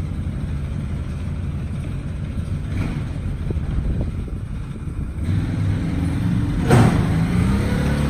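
Quad (ATV) engine running under load as it tows a pickup truck on a chain, the engine note getting louder and stronger about five seconds in. A single sharp bang about seven seconds in.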